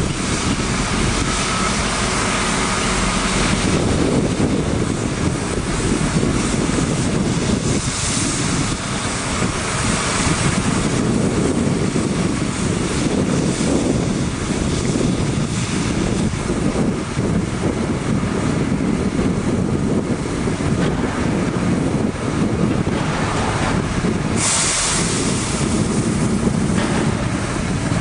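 Mack water truck running while spraying water, a steady rushing noise over the engine, with wind buffeting the microphone. The hiss grows brighter for a few seconds near the end.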